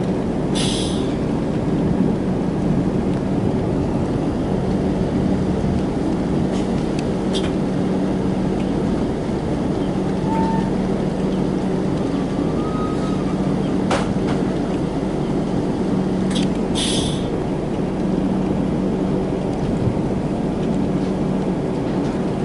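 Express passenger train running steadily: a continuous rumble of the wheels on the rails with a steady low hum, a few sharp clicks, and two short hisses, one near the start and one about three-quarters of the way through.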